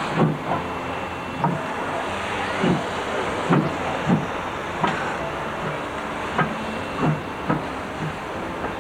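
Railway rolling stock clanking as it moves slowly: about a dozen irregular heavy knocks, some in pairs about half a second apart, over a steady hiss.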